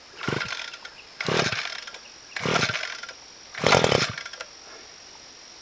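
Small two-stroke engine of a Wild Badger multitool being pull-started on choke: four short bursts of cranking and sputtering about a second apart, each dying away without the engine staying running.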